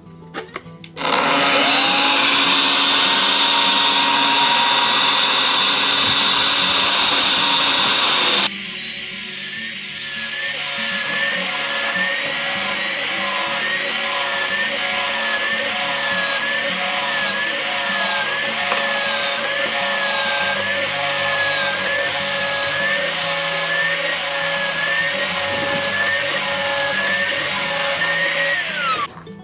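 An electric power tool running continuously at a loud, steady level. It starts abruptly about a second in. About eight seconds in its sound thins to a higher noise with a steady tone and a wavering whine, and it cuts off just before the end.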